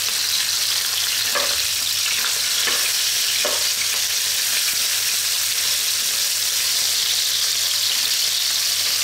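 Thin slices of pork liver sizzling steadily in hot oil in a nonstick frying pan. A few short clicks of metal tongs against the pan come in the first four seconds as the slices are turned.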